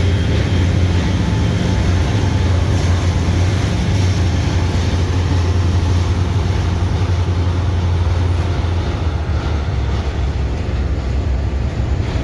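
A train passing close by: a steady, loud low drone with a rumbling rush of wheel and rail noise, the drone easing a little in the last few seconds.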